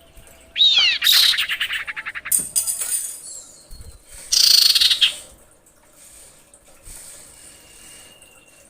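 A female common iora (cipoh) calling to draw a male. About half a second in, a downward-sliding whistle runs into a fast rattling chatter that fades over about two seconds. About four seconds in comes a loud, harsh, hissing call, and near the end a faint, thin, steady whistle.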